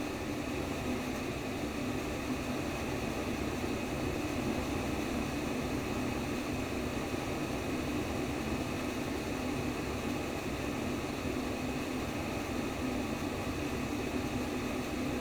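Simulated womb sound: a steady, unbroken whooshing noise, strongest in a low hum band, with no pauses or changes.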